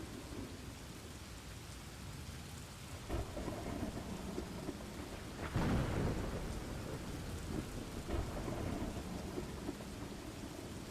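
Rainstorm ambience: steady rain with rolling thunder, a low rumble swelling about three seconds in and the loudest thunder clap with rumble about five and a half seconds in, then fading back to rain.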